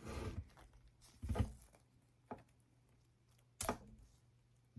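A few soft knocks and clicks from handling a plastic syringe and medication vial, about four in all, with the sharpest click a little before the end.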